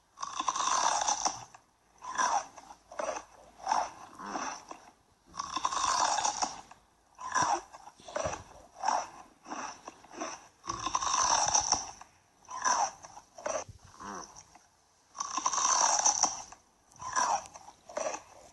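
Crunchy biting and chewing close to the microphone. A longer crunch is followed by several short crunches, and the pattern repeats about every five seconds.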